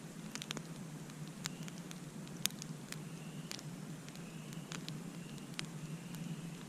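Campfire crackling, with irregular sharp pops and snaps of burning wood over a steady hiss of the flames.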